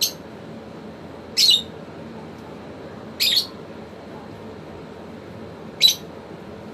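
African lovebird giving short, shrill single calls, one every two seconds or so, four in all.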